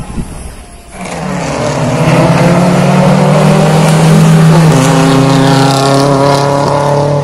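Car engine at high revs in a drag race, coming in loud about a second in and holding a steady note whose pitch steps down twice.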